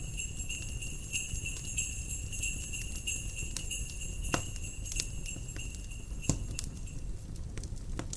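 Jingle bells ringing steadily over a crackling fire, with a low rumble beneath; the bells die away near the end while the fire keeps popping with sharp cracks every second or so.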